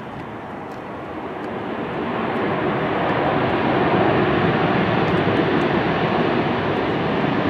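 Jet airliner engines rushing past, the noise swelling over the first few seconds and then holding steady and loud.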